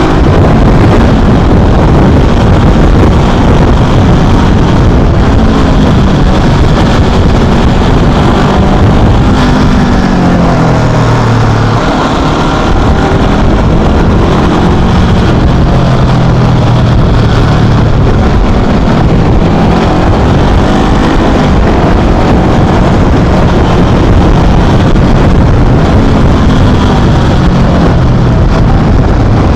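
Small Honda motorcycle engine under way, its pitch rising and falling repeatedly as the rider accelerates and eases off.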